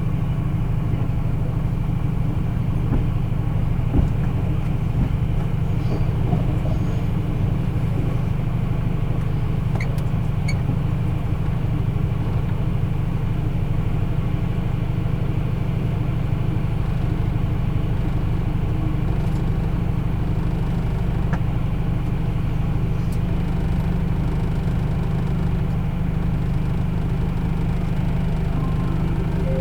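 Diesel train idling at a station stop: a steady low engine drone that holds unchanged, with a few faint clicks.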